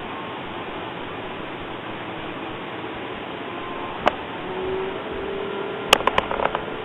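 A steady hiss like a fan or room noise. One sharp click comes about four seconds in, and a quick run of clicks or taps comes near the end.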